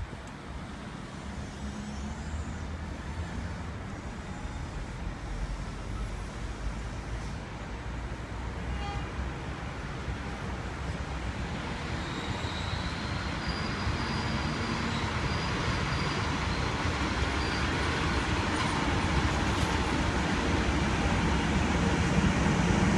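A train approaching, its rumble and rail noise growing steadily louder, with faint high-pitched tones joining in the second half.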